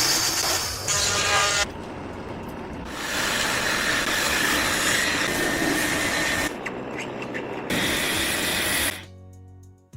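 Workshop tool work on metal, rubbing and rasping, in short edited clips that change abruptly every second or two. Near the end it drops to a much quieter passage with faint steady tones.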